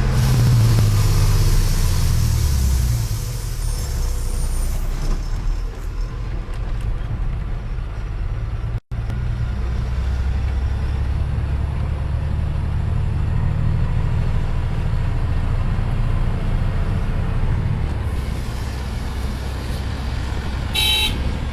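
Truck engine running steadily while driving, a continuous low rumble with road noise. The sound drops out for an instant about nine seconds in, and a brief high-pitched squeal comes near the end.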